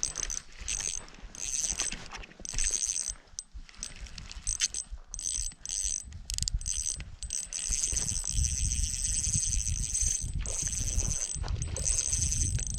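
Fishing reel whirring in repeated high-pitched bursts while a hooked fish is being played, with wind rumbling on the microphone in the second half.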